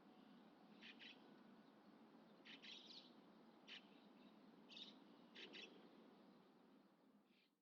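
Faint, short bird chirps, mostly in quick pairs, about six times over a low steady background hiss, and the sound drops out abruptly at the very end.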